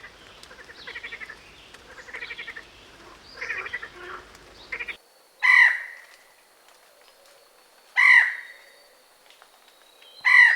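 Animal calls: a few seconds of quick, pulsing chattering calls, then, after a cut, three loud harsh calls about two and a half seconds apart.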